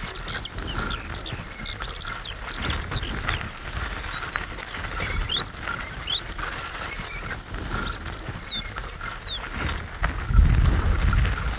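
Birds singing in the countryside: many short, quick chirps and whistles over a steady outdoor hiss. A low rumble swells near the end.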